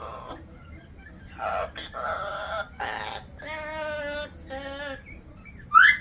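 Parrot singing in a mimicked voice: a few short syllables, then two long wavering notes, and a loud sharp squawk near the end.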